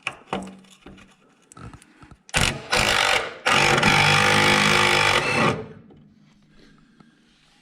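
Power impact wrench running in two bursts, a short one and then a longer one of about two seconds, after a few clicks and knocks of tools, working bolts loose.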